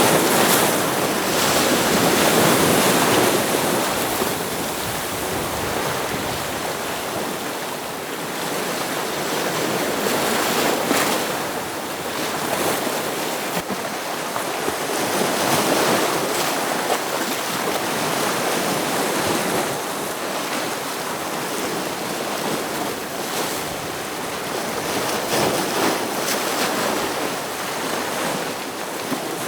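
Ocean waves breaking against rocks: a continuous rush of surf that swells and ebbs every several seconds, loudest in the first few seconds.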